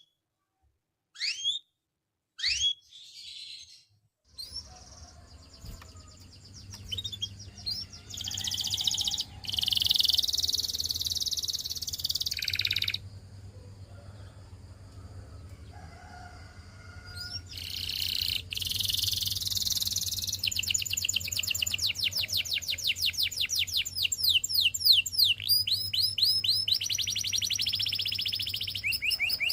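Domestic canary singing. It starts with a few separate chirps with gaps between them, then moves into long song phrases of fast trills and rapidly repeated notes. A faint low hum runs underneath from a few seconds in.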